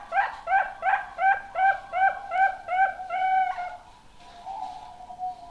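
Young zebra dove (perkutut) singing: a quick run of short cooing notes, about two and a half a second, that ends in a longer held note, then a softer drawn-out coo.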